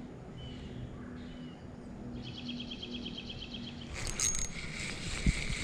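Songbirds chirping, with short high calls and then a rapid trill of about ten notes a second in the middle. About four seconds in, a louder hiss begins, with a few sharp knocks near the end.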